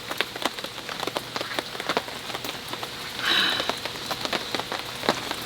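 Heavy rain falling on a camping tarp, many separate drops striking it. A brief hiss rises about three seconds in.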